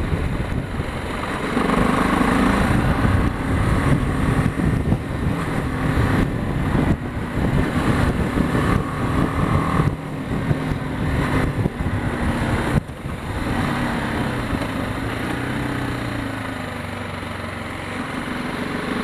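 BMW G 310 GS single-cylinder motorcycle engine running under way on a rough lane, with wind and road noise and knocks from the bumpy surface. About thirteen seconds in a sharp knock comes, and after it the engine note drops lower and quietens as the bike slows.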